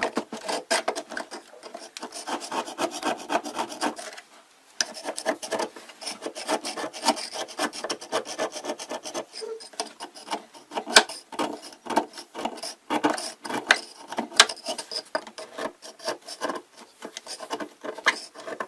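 Toothbrush scrubbing hard mineral scale in a hot-air humidifier, in quick rasping back-and-forth strokes with a brief pause about four seconds in. The deposits are caked on like cement.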